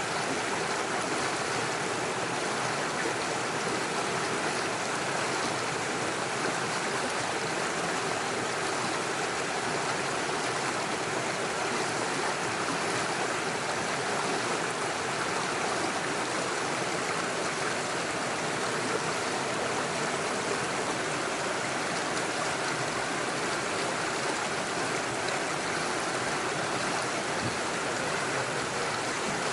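Small rocky stream running over stones and little waterfalls, a steady even rush of flowing water.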